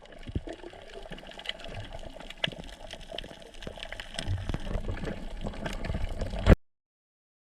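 Water bubbling and sloshing, with many scattered sharp clicks, that cuts off suddenly near the end.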